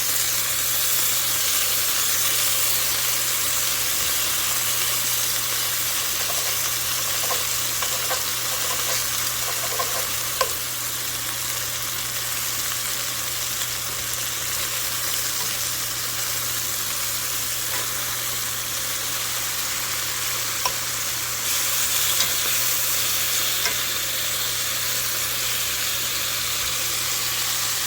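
Thin chicken cutlets and wilting spinach frying in oil in pans, a steady sizzle with a few faint clicks.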